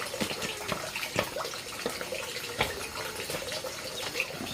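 Water running and splashing, with many small knocks and clicks scattered through it.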